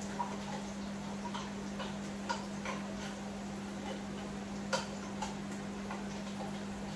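Scattered light clicks and taps of a spoon against a pot or container, the sharpest a little under five seconds in, over a steady low hum.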